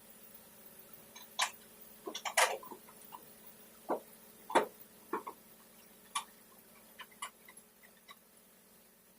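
A string of irregular light knocks and clicks, about a dozen, unevenly spaced, the loudest cluster between two and five seconds in, over a faint steady hum.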